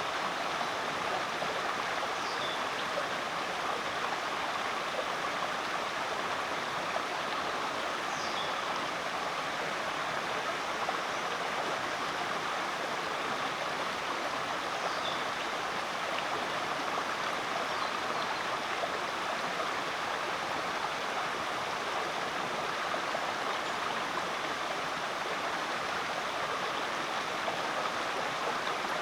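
Creek water running steadily, an even unbroken rush. A few faint short high chirps come through now and then.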